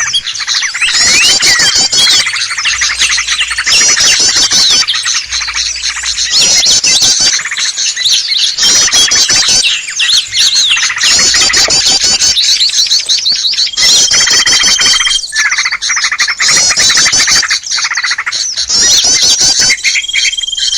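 Loud, busy chorus of small songbirds chattering and calling, from a bird-luring recording meant to draw in small wild birds. Rapid high trills repeat in bursts about once a second, and a thin steady whistle sounds twice, about two-thirds of the way in and near the end.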